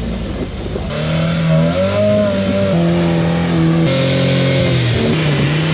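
Off-road rock-crawler engines revving hard, with sudden jumps in the sound about one and four seconds in.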